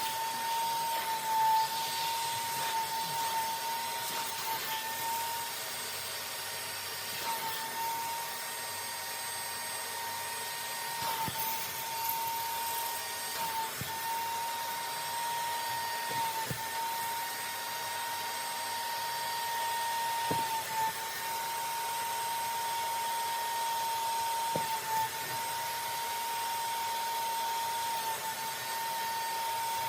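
Bissell Spot Clean Professional portable carpet extractor running with a steady high whine, its pitch dipping briefly every second or two.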